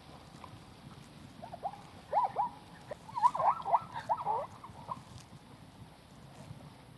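An animal calling in a run of short, squeaky chirps that bunch into a quick chatter about three seconds in and stop about five seconds in.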